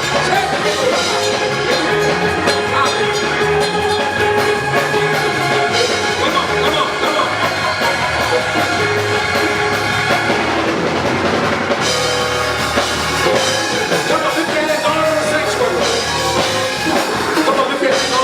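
Live church band music with drums, bass and sustained keyboard or organ chords, playing steadily under a prayer time.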